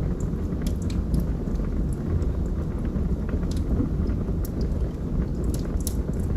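Wood fire burning in a fireplace: a steady low rumble of the flames with scattered sharp crackles and pops, several a few seconds apart.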